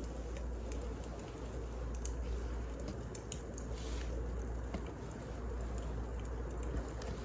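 Wood fire crackling: irregular sharp pops and snaps over a steady low rumble and hiss.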